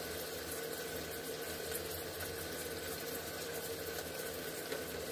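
Steady hum of a running appliance with a faint constant tone, no change in it.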